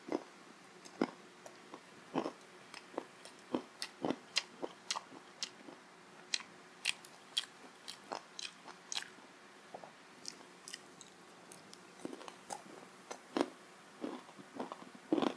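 Close-up chewing and biting of fried syaphaley, a meat-filled fried bread: a string of short, irregular wet mouth clicks and smacks, a few a second.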